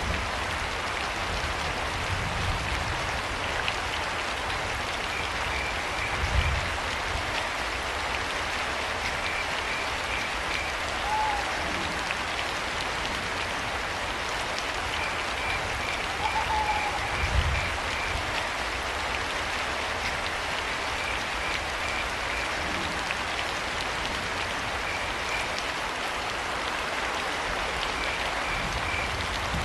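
Steady rain falling, with crickets chirping in short pulsed trills that come and go every few seconds. Two brief arched calls sound around eleven and sixteen seconds in, and two low thumps around six and seventeen seconds in.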